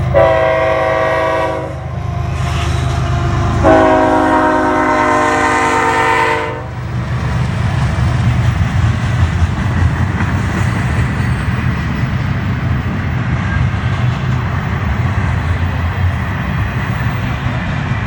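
Diesel freight locomotive's air horn sounding two blasts, the second longer, over the low rumble of the train; after the horn stops the steady rumble and clatter of the passing train continues.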